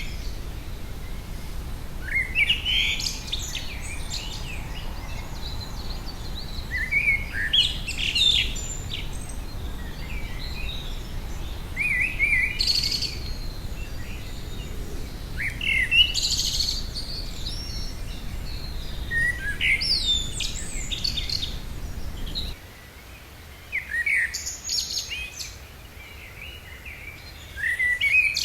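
Songbird singing short, varied phrases of rising and falling whistled notes, a new phrase every few seconds. A low background rumble drops away about three-quarters of the way through.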